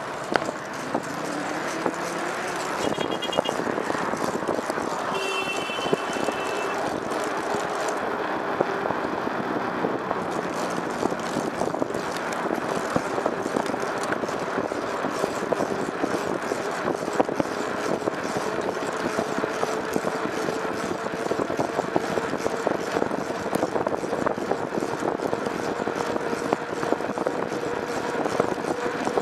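Motor vehicle on the move: a steady rush of road and wind noise, with a faint engine note that slowly rises in pitch. Two brief high chirps come about 3 and 6 seconds in.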